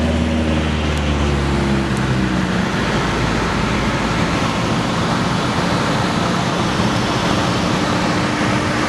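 Aircraft engine and airflow noise: a loud, steady rush with a low hum under it, and a faint tone that slowly rises near the end.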